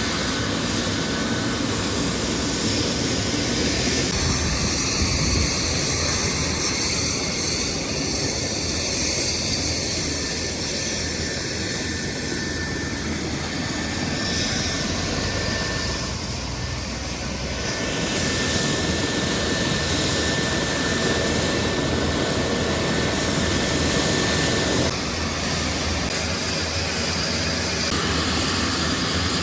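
Helicopter engine and rotor noise, a steady loud rush with a faint whine. Its character changes abruptly about 4, 17 and 25 seconds in, as if cutting between recordings.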